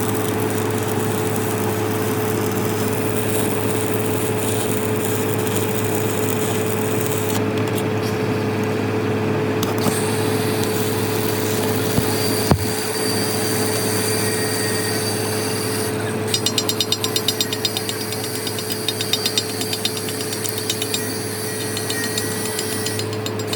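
A machine's engine or motor running steadily with a constant hum. About two-thirds of the way in, a rapid, regular ticking joins it, and there are one or two sharp knocks about halfway through.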